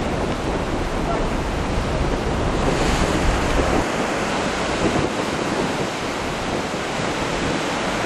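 Steady rushing noise, with a strong low rumble that drops away about four seconds in; no bird calls stand out.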